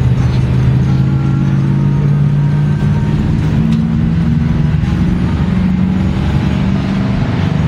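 A vehicle engine running steadily, a low drone that shifts pitch a few times.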